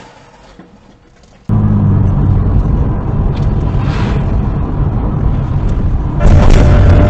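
Engine and road noise of a car driving, heard through a dashcam, starting abruptly about a second and a half in after near quiet, with a steady low hum. It gets louder near the end.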